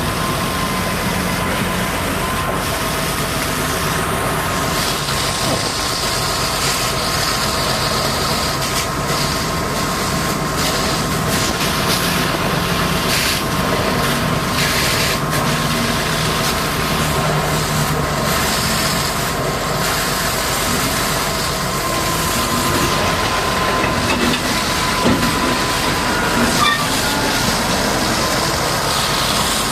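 High-pressure washer running steadily while mud is washed off a Caterpillar D8R bulldozer: a machine noise with a high steady whine, under a continuous hiss of spray.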